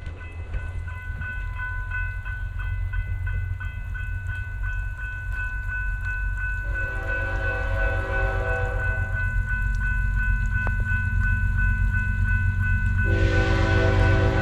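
A grade-crossing bell rings rapidly and steadily while an approaching Canadian Pacific diesel locomotive sounds its horn: one blast of about two seconds around the middle, and a louder one starting near the end. Under it a low rumble of the oncoming train grows steadily louder.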